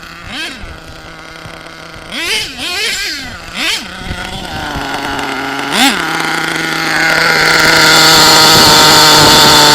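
SH .28 nitro engine of an HPI Savage X RC monster truck idling with a steady buzz, blipped in several short revs. From about seven seconds in it runs much louder at a high, steady pitch.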